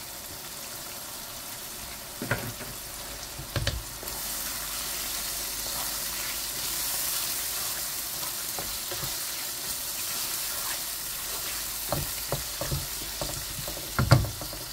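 Raw chicken pieces sizzling in hot oil with onions in a nonstick wok, stirred with a wooden spatula that knocks against the pan a few times. The sizzle grows louder about four seconds in, and the loudest knocks come near the end.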